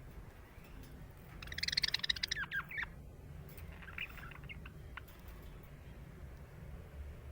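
Budgerigar chattering: a quick, busy run of chirps and squawky notes about a second and a half in, then a few scattered single chirps.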